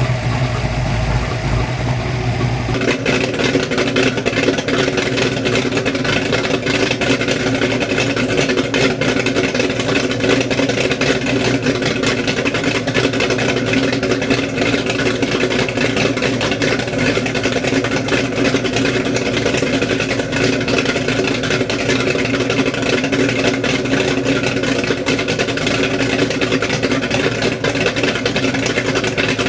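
Kiekhaefer 482ci marine race engine running loud and steady. About three seconds in it picks up to a faster, fuller steady run, which holds.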